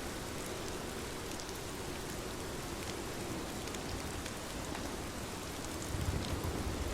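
Steady rain falling, with individual drops ticking sharply through a continuous wash of noise. The low end swells a little about six seconds in.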